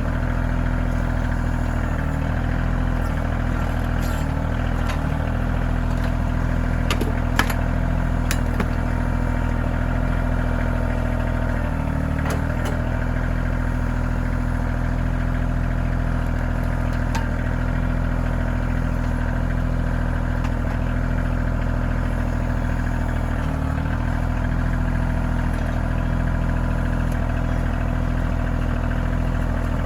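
KIOTI CK2620 compact tractor's three-cylinder diesel engine running at a steady speed, with a few brief knocks and clanks over it.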